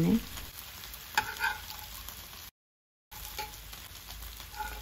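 Masala-coated breadfruit slices sizzling in shallow oil in a nonstick pan, with a few scrapes and taps of a metal spatula on the pan as the fried slices are lifted out. The sound drops out abruptly for about half a second midway.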